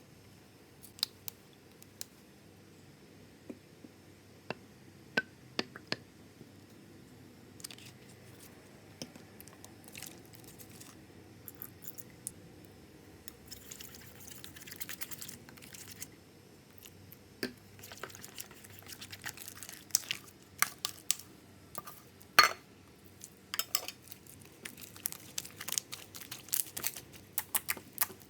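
Small plastic items being handled, giving scattered taps and clicks that grow busier after the halfway point, mixed with crinkling.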